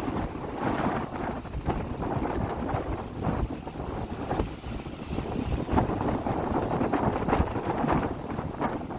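Wind buffeting the microphone: a gusty, uneven rumble that swells and eases every second or so.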